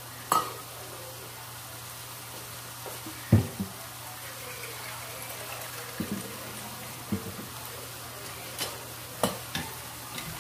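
Chicken, carrots and onion sizzling steadily in a nonstick frying pan, with a few sharp knocks and clinks of kitchen utensils against the pan or counter. The loudest knock comes about a third of the way in.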